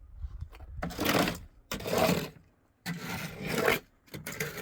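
Four rough scraping strokes, each a second or less long, with short gaps between them.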